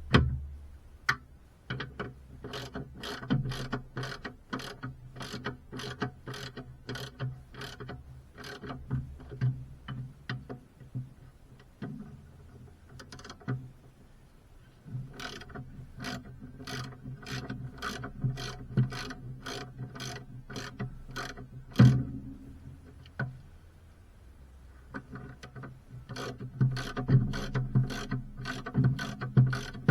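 Ratchet wrench clicking in runs of even strokes, about two to three clicks a second, with two short pauses and a single louder knock about two-thirds of the way through.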